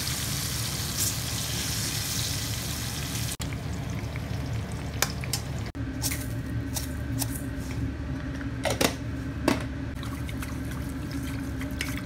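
Banana chunks frying in hot oil, a steady sizzle that cuts off after about three seconds. Then sugar and water go into a steel pot and are stirred with chopsticks, with a few sharp clinks against the metal over a steady low hum.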